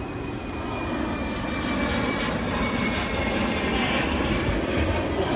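Airplane passing overhead: a dense engine rumble that grows steadily louder, with a faint high whine slowly dropping in pitch.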